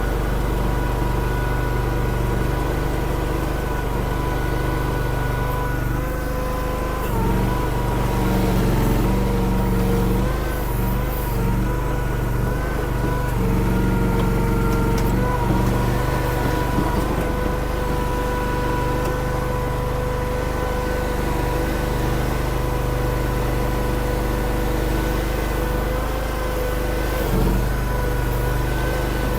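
Mini skid steer engine running steadily under work, with a thin high whine over the engine hum; the engine note shifts and picks up for several seconds in the middle as the machine works.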